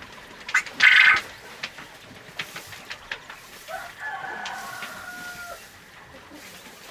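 A rooster crowing once, a pitched call lasting about two seconds that drops away at the end. Before it, about a second in, there is a short loud burst of fowl noise, with scattered small clicks throughout.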